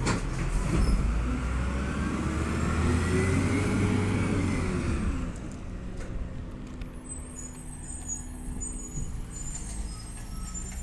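Garbage truck's diesel engine pulling away, its pitch rising and then falling, then dropping off after about five seconds to a low steady hum.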